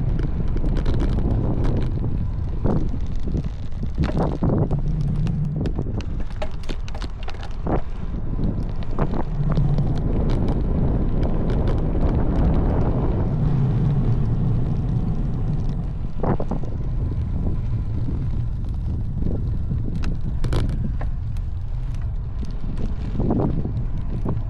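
Wind buffeting the microphone while riding a road bike: a steady low rumble, broken by scattered short clicks and knocks.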